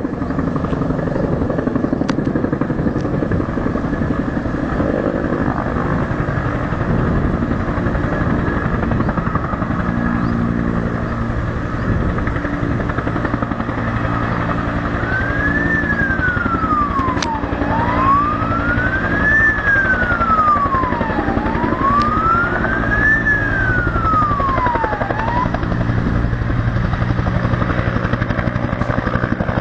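Steady engine noise with a low hum, and about halfway through an emergency siren wails up and down three times, each rise and fall taking a few seconds.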